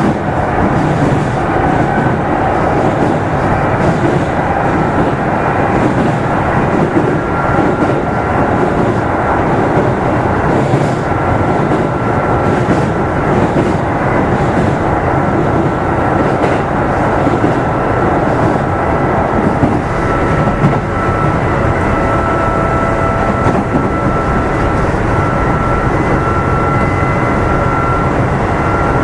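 Kintetsu 2800 series electric train running between stations, heard inside motor car Mo 2853: a steady rumble of wheels on rail with a steady motor and gear whine, and a few light clacks in the middle. This car is known for an abnormal noise under acceleration that resembles an old nose-suspended traction motor.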